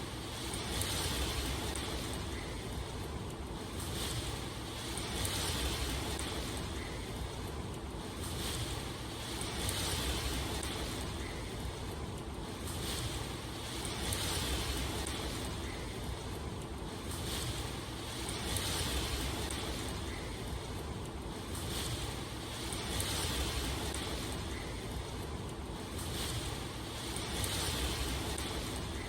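Steady rushing water noise that swells and eases about every four to five seconds, with no speech or music.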